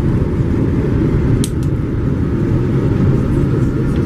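Steady low rumble of a Boeing 787-9 Dreamliner's cabin during landing, engine and airflow noise heard from inside, with a faint click about a second and a half in.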